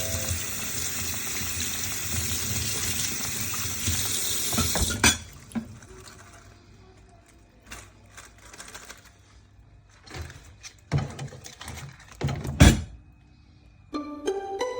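Water running from a tap into a sink, steady for about five seconds, then cut off abruptly. After that come scattered light knocks and clatter.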